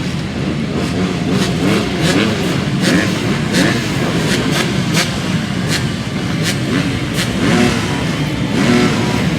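Several motocross motorcycles racing, their engines revving up and down and overlapping as they accelerate and shift. There are short sharp clicks every so often.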